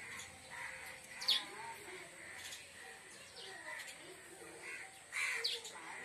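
Birds chirping and calling: a sharp chirp about a second in, and a louder cluster of calls near the end.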